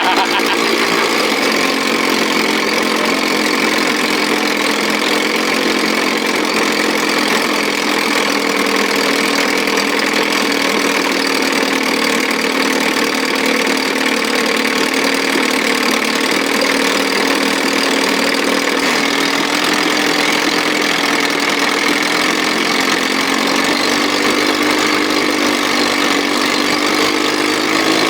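1957 Sea King 5 hp two-stroke outboard motor running steadily at a low speed, its pitch wavering slightly now and then, before its carburettor has been dialed in.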